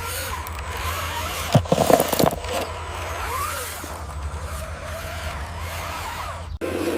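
Small electric motor of a remote-control construction vehicle whirring, with a burst of clattering a little under two seconds in and a whine that rises and falls.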